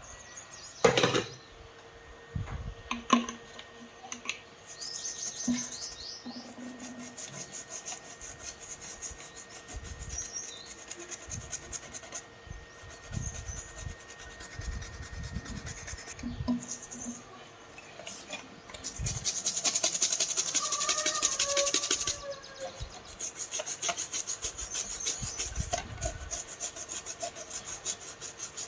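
Rapid rasping strokes of something being scraped or rubbed against a hard surface, loudest for about three seconds two-thirds of the way in, over a faint steady tone, with a couple of knocks near the start.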